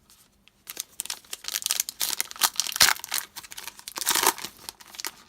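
Foil wrapper of a trading card pack being torn open and crinkled, a dense run of crackles starting about a second in.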